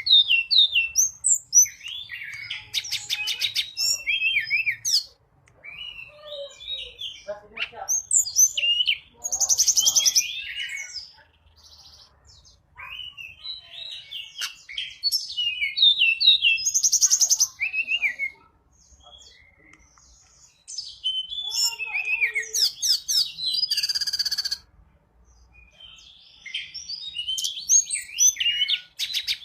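Tledekan gunung singing a lure call: bouts of high, quick chirps and trills a few seconds long, broken by short pauses about every six seconds.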